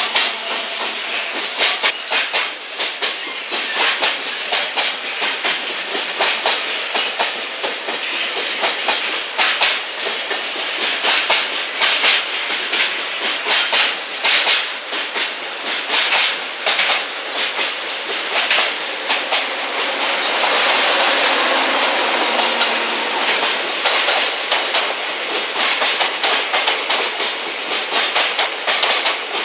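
Freight trains rolling past: the steel wheels of container wagons, then of an EF210 electric locomotive and the unpowered new commuter cars it tows, clack continuously over rail joints and points, with a smoother rolling stretch about two-thirds through.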